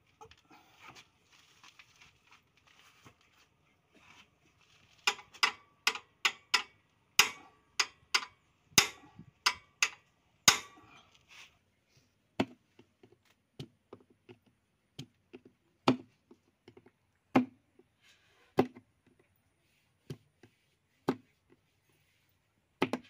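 Hand tools knocking and clanking on metal. A quick, irregular run of loud strikes with a faint ring comes about five seconds in, followed by single knocks every second or two.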